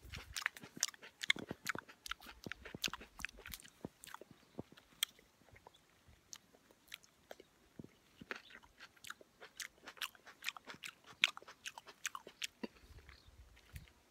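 Close-up chewing of juicy cherry plums: wet, irregular mouth clicks and smacks, several a second.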